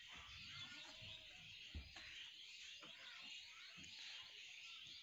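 Near silence: faint high chirping of birds in the background, and a few soft knocks from a paper craft being handled on cloth, the loudest about two seconds in.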